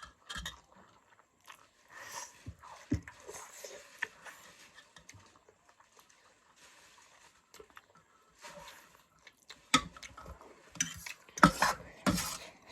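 Instant noodles being eaten close to the microphone: chewing and slurping, with scattered short clicks and clinks of utensils against a bowl. The loudest bursts come near the end.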